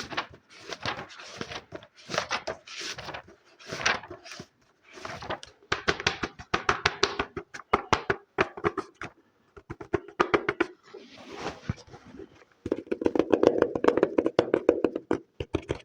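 Close-miked ASMR trigger sounds: a series of short swishing strokes, then rapid tapping that turns into dense, fast tapping with a hollow ring near the end.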